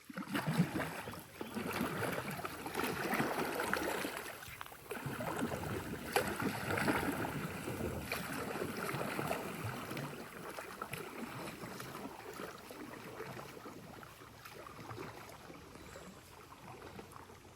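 Kayak paddle strokes splashing and swishing through pond water, fading toward the end.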